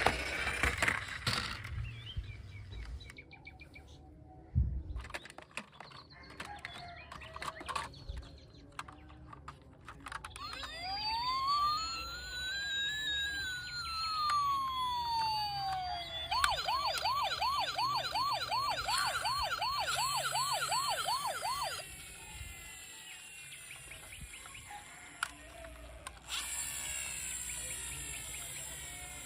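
Electronic siren: one slow wail rising and falling, then a fast warbling yelp for about five seconds. Before it comes a scatter of clicks and knocks.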